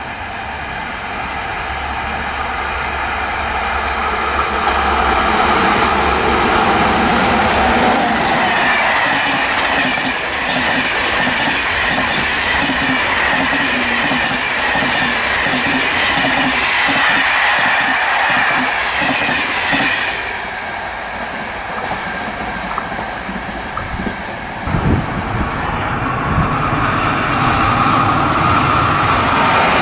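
A passenger train approaches and passes at speed, louder over the first few seconds. Its coach wheels then click rhythmically over the rail joints under a steady high whine until about twenty seconds in, when the sound falls away. After a cut near the end, a second train is heard approaching.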